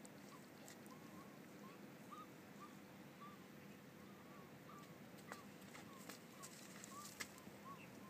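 Faint birds calling in the distance, a steady string of short chirping notes about three a second. A few sharp clicks come in the second half.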